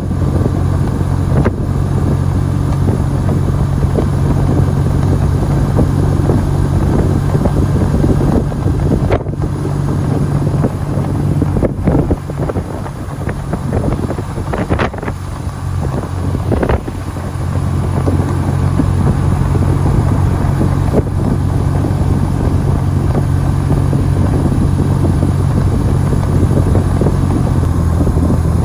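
BMW motorcycle engine running at a steady pitch while being ridden, with wind noise on the microphone. The engine note fades for a few seconds about halfway through, then comes back.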